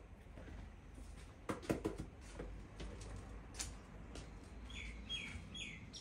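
A bird calling outdoors in short, repeated chirps that slide downward, three of them about half a second apart near the end. Earlier come a few light knocks, like dishes or utensils being handled.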